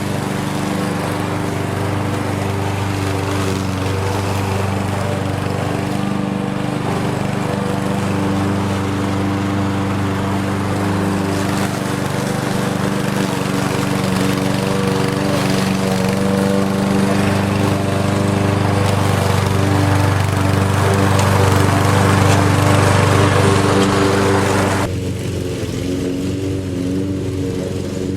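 Lawn mower engine running steadily, slowly getting louder. About three seconds before the end the higher part of the sound drops away suddenly, and it runs on quieter and lower.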